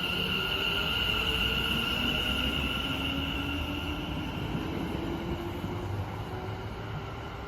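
A train running past with a steady high-pitched squeal that slowly fades, and a lower tone rising in pitch through the middle, over a low rumble.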